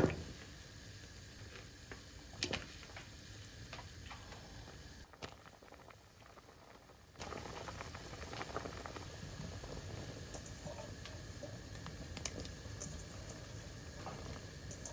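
A pot of soup bubbling on the stove, with a few light clicks of utensils; the bubbling drops away for a couple of seconds about five seconds in.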